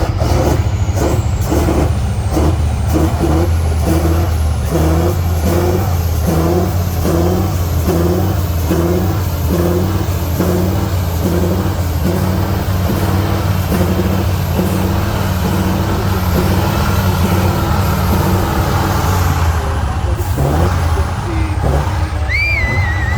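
Heavy truck engine running steadily, with a regular pulsing of about one and a half beats a second through the first half. A short, high whistle-like tone sounds near the end.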